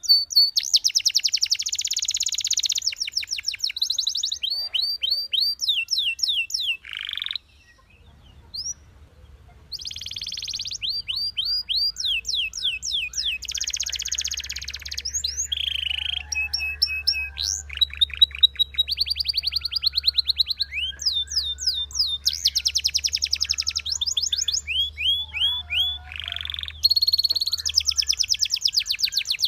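Belgian canary singing: a long song of fast trills and rolls, each a quick run of repeated notes sweeping down in pitch, changing from one tour to the next, with a short break about eight seconds in.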